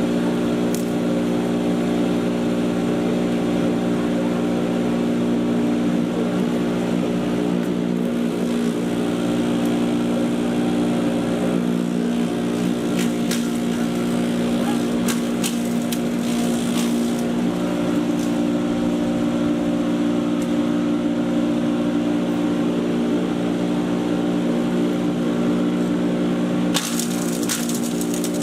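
Patriot 1.5-HP electric chipper shredder running steadily with a constant motor hum, with scattered clicks and rattles in the middle and again near the end.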